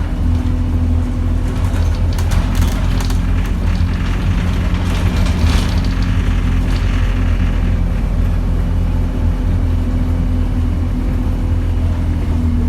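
Interior of a single-deck Alexander Dennis Enviro200 bus under way: steady engine and drivetrain drone, with scattered clicks and rattles from the body and fittings.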